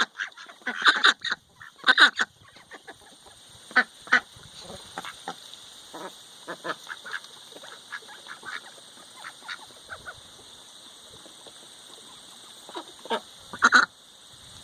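Domestic ducks quacking: a few loud quacks in the first couple of seconds, scattered softer quacks through the middle, and a loud burst of quacks near the end.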